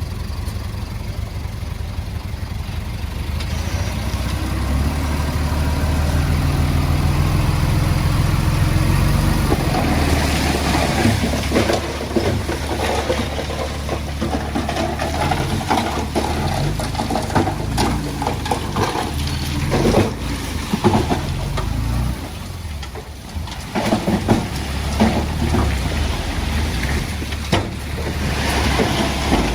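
Diesel engine of a Komatsu D20P bulldozer working under load, building up over the first several seconds. From about ten seconds in, irregular clanks and rattles of tracks and stone run over it, easing briefly about two-thirds through before more clatter.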